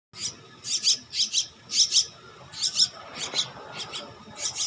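Young Martinez birds (crested mynas) giving a run of short, harsh squawking calls, about two to three a second.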